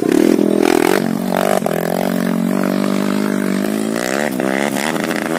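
Dirt bike engine running at steady revs, its pitch dipping and rising again about four seconds in as the throttle is worked.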